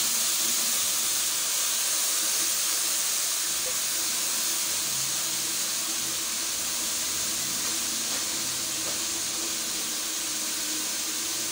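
Oil sizzling steadily in a pot of frying onions and carrots as handfuls of shredded cabbage are dropped in, the hiss easing a little as the pot fills.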